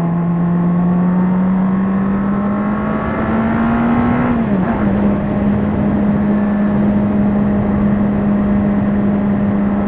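Honda CBR600RR's inline-four engine running under way, its pitch climbing gradually for about four seconds, then dropping quickly to a lower note that holds steady, over rushing road and wind noise.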